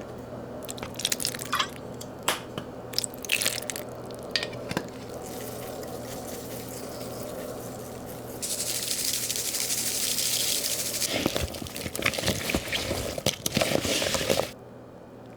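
Kitchen handling sounds: scattered light clicks and taps, then water running for about two and a half seconds, followed by more clattering handling.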